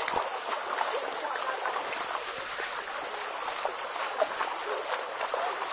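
Steady rush of falling water from a waterfall, with faint scattered voices in the background.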